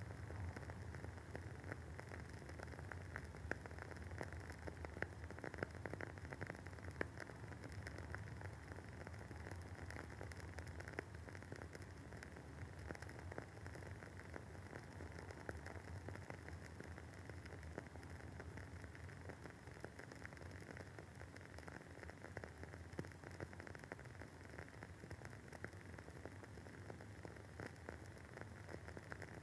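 Wooden wick of a WoodWick candle burning with a soft, continuous crackle of many tiny pops. A few louder pops stand out in the first several seconds.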